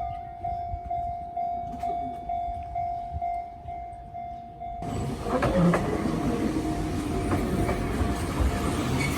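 A level-crossing warning bell ringing in a steady, even rhythm of about two strokes a second. About halfway through, an Enoden electric train arrives and passes with loud rumbling and rail noise over the bell.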